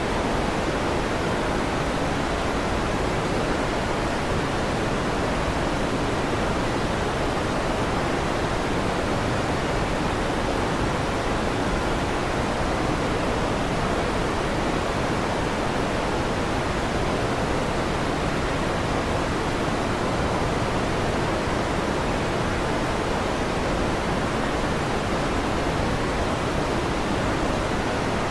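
A running electric fan making a steady, even rushing noise with no change in level. There is no thunder clap in this stretch.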